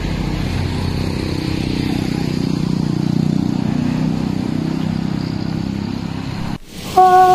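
A motor vehicle's engine running steadily. It cuts off abruptly about six and a half seconds in, and music starts just before the end.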